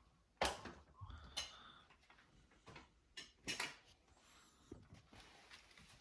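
Scattered light clinks and clicks of metal tools and parts being handled during a dryer repair, about half a dozen short, sharp taps.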